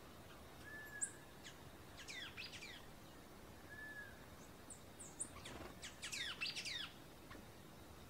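Small songbirds calling: scattered high chips, two short soft whistles, and two runs of quick falling twittering notes, the louder one about six seconds in.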